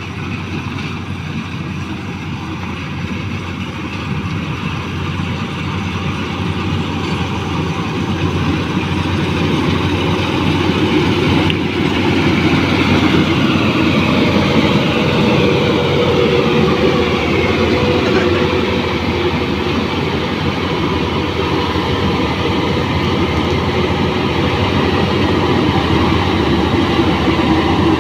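Changfa rice combine harvester running, its engine and threshing machinery making a continuous mechanical clatter. The sound grows louder over the first ten seconds or so, and the engine pitch shifts in the middle.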